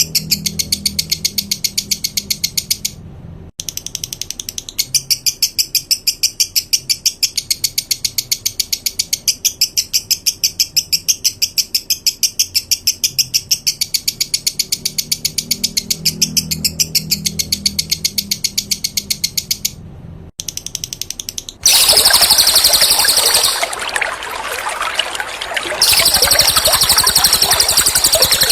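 Recorded songbird calls from a masteran track: a rapid, evenly spaced series of high-pitched chips, about eight a second, broken by two short pauses. From about twenty-two seconds in, a loud rushing-water sound takes over.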